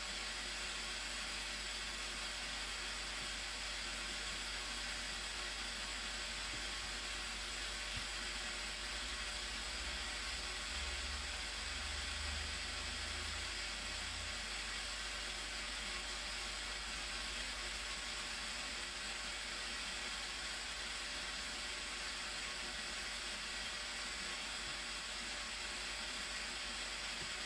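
Steady rushing noise of the Blue Nile Falls, an even roar of falling water that does not change.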